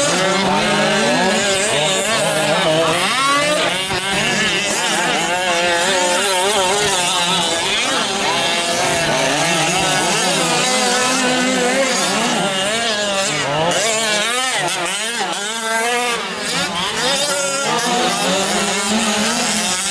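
Several 1/5-scale gas-powered RC off-road trucks racing, their small two-stroke engines revving up and down in overlapping rising and falling whines.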